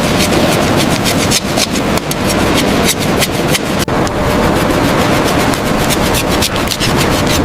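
Dense, continuous scraping and rubbing with rapid irregular clicks: fish being cut at a processing station.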